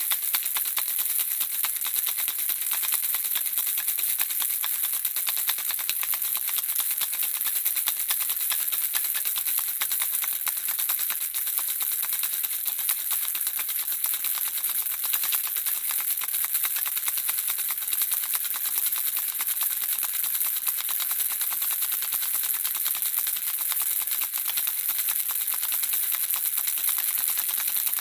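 Handheld baby rattle shaken continuously: the small beads inside make a steady, dense run of rapid, bright tinkling clicks with no pauses.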